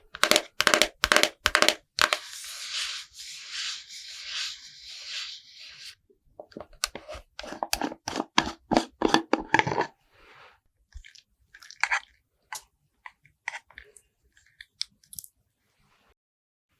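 Close-miked ASMR makeup sounds on a watermelon: a quick run of crisp taps or crunches, then a few seconds of steady scratchy brushing or spreading. After that comes another dense run of crunchy taps that thins out to scattered light clicks.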